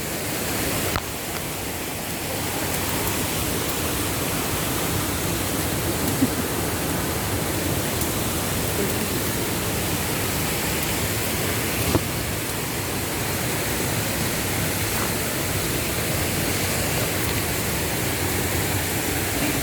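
Steady rushing of waterfall water running over rocks, with a couple of small knocks.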